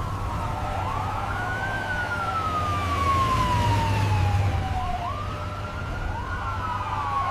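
Emergency vehicle siren wailing: its pitch rises about a second in, sweeps slowly down over several seconds, then rises again near the end, over a steady low rumble.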